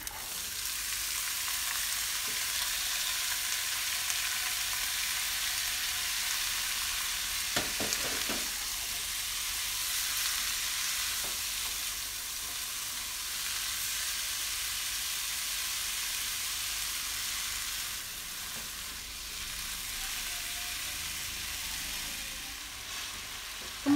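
Diced potatoes and carrots sizzling in hot oil in a non-stick wok, the sizzle starting up as they are tipped in and going on steadily while they are stirred with a wooden spatula. A brief knock about eight seconds in.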